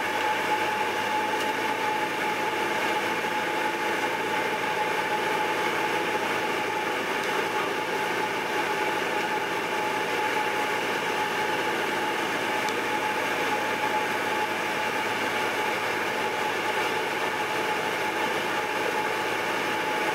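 Cessna 172's piston engine and propeller droning steadily in flight, heard from inside the cabin, with a constant whine over the drone.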